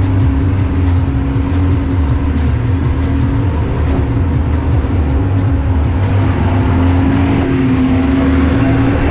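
Boat engine running steadily under way: a constant low drone with a steady hum.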